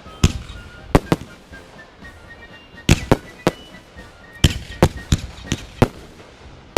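Fireworks going off: about a dozen sharp bangs at irregular intervals, some in quick clusters of two or three.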